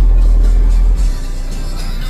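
Bass-heavy music played loud through a car audio system, a very deep bass note strongest for about the first second and then softer.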